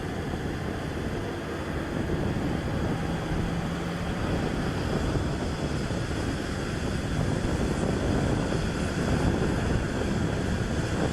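Steady rushing noise of a jet aircraft, with a faint low hum for a couple of seconds about three seconds in.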